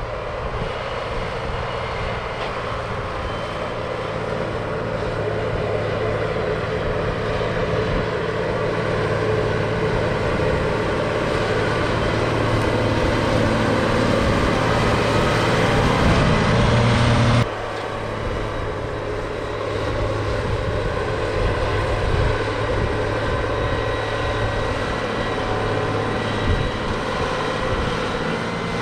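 Heavy diesel farm machinery running steadily under load, with a deep engine hum. The sound grows gradually louder, then drops suddenly about two-thirds of the way through and carries on at a lower level.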